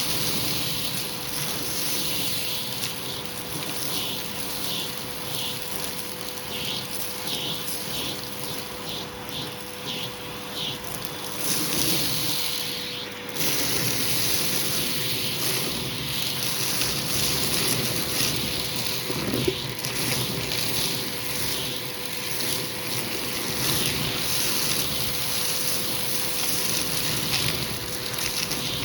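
Hoover vacuum cleaner running with a hose tool on a rug, a steady motor hum under rushing airflow. In the first ten seconds there is a run of short, repeated swishes, and the airflow changes briefly about halfway through.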